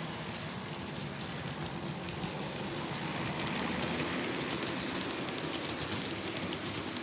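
An N scale model train running on its track: the locomotive's small motor hums while the wheels make a rapid, rain-like patter of clicks over the rails, growing a little louder in the middle as it passes close.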